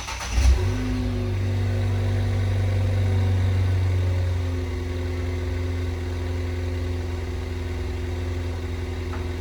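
Ford Fiesta ST's turbocharged engine starting from cold on its stock exhaust: it fires with a brief flare of revs about half a second in, then settles into a steady fast idle that eases down slightly a few seconds later.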